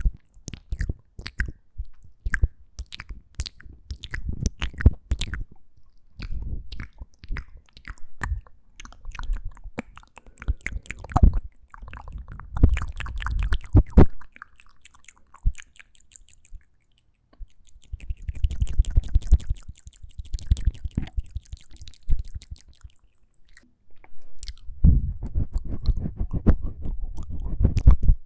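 ASMR mouth sounds made close to the microphone: rapid runs of lip and tongue clicks and smacks, in bursts with short pauses between them.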